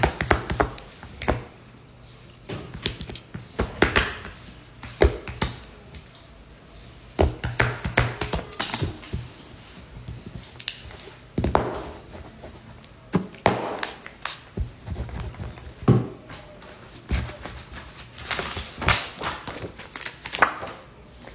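Irregular taps, clicks and small knocks of hand tools and parts being handled while repairing a smartphone, coming every second or so at uneven loudness, over a faint low hum.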